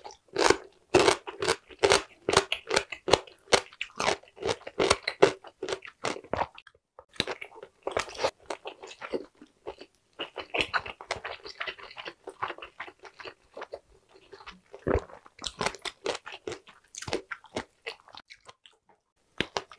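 Close-miked chewing of spicy stir-fried Korean blood sausage (sundae): quick runs of wet, crunchy chews a few times a second, with a short pause about six and a half seconds in.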